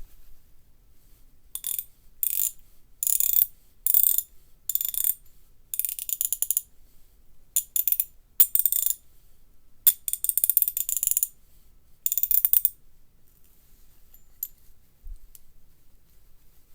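Asahi (ASH) 45-tooth ratchet handle with a 9.5 mm (3/8-inch) square drive, its pawl clicking in rapid, high-pitched runs as the handle is swung back. There are about ten short bursts of clicking, separated by pauses.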